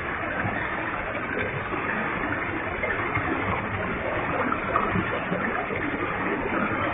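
Waterfall with a heavy flow of water, a steady, even rush of falling water and spray.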